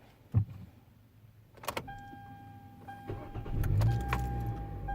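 2013 Hyundai Elantra being started: a click, then a steady electronic dashboard chime with brief breaks. About three and a half seconds in, the engine cranks, catches and settles into a low idle.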